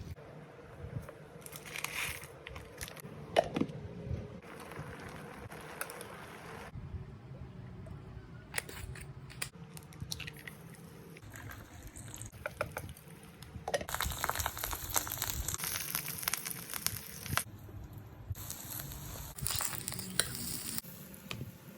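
Kitchen sounds of making instant noodles: packet crinkling and tearing, small knocks and clatters, and stretches of sizzling, the longest about two-thirds of the way through.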